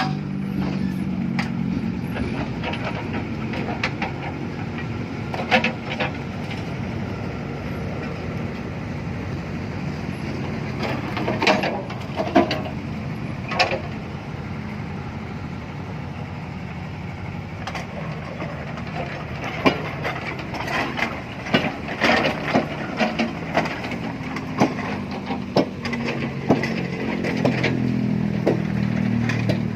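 Excavator engine running steadily while digging out a mud pile, with scattered sharp knocks and clanks throughout.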